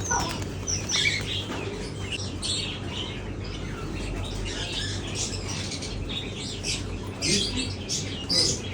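Many caged pet birds chirping at once: a dense chatter of short, high calls that overlap without a break.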